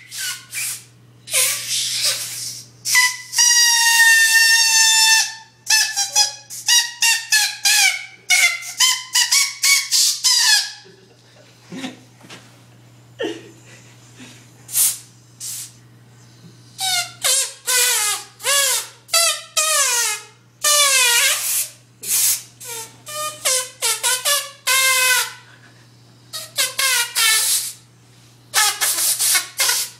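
Compressed air let out in dozens of short blasts, most of them honking, squealing tones that bend in pitch, one held for about two seconds, with some plain hissing bursts among them.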